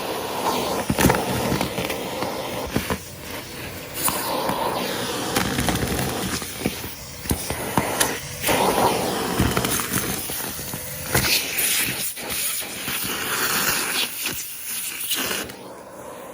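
Numatic Henry cylinder vacuum cleaner running and sucking up crunchy debris, which rattles and clicks irregularly as it goes up the hose.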